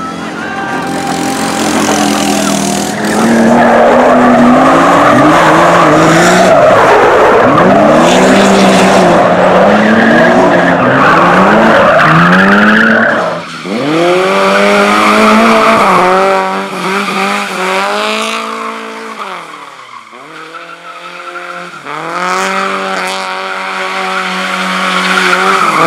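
Race car engine revving hard through a slalom, the revs climbing and dropping again and again with gear changes and throttle lifts, over tyre squeal. The loudest stretch runs from about three to thirteen seconds in. Near twenty seconds in the revs fall away briefly, then climb again.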